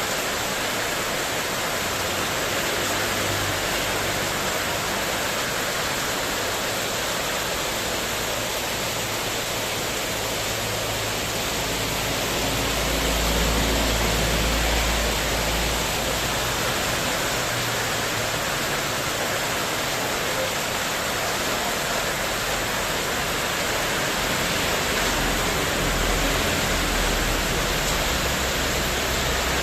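Heavy rain pouring steadily in a windstorm, drumming on a spandek metal-sheet terrace roof. A low rumble swells about halfway through and again near the end.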